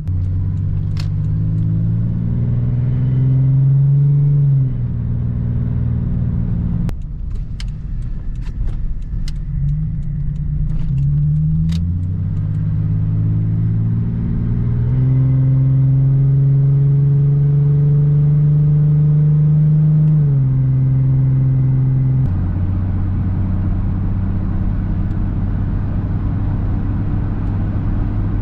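Ford Ranger pickup driving. The engine note climbs as it accelerates, drops sharply at the gear changes about 4.5, 20 and 22 seconds in, and holds steady while cruising in between. A run of sharp clicks comes roughly a third of the way through.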